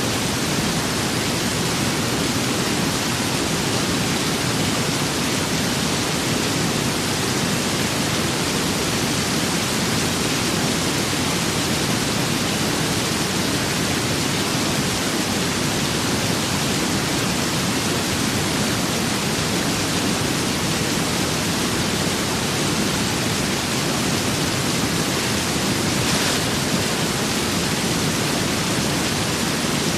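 Steady rain with wind, an even, unbroken hiss with a low rumble underneath.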